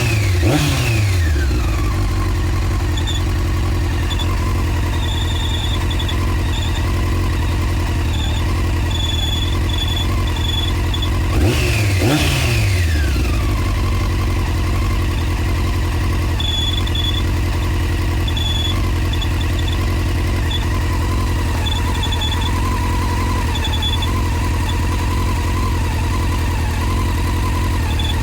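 Honda CBR600 F4 inline-four engine idling, with the throttle blipped and the revs falling back at the start and again about 12 seconds in. A faint high-pitched whistle comes and goes over the idle.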